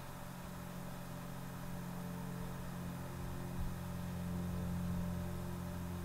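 A steady low mechanical hum, holding one pitch.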